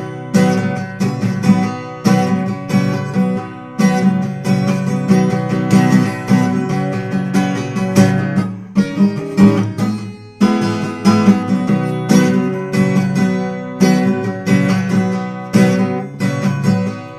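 Acoustic guitar strumming chords in an instrumental break between sung verses, with a short gap in the strumming about ten seconds in.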